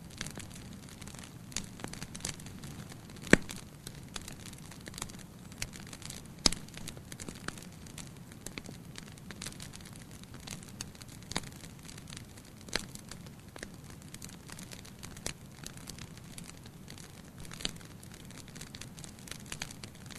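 Wood fire burning in a fireplace: a steady low hiss with irregular sharp crackles and pops, the loudest pop about three seconds in and another about six seconds in.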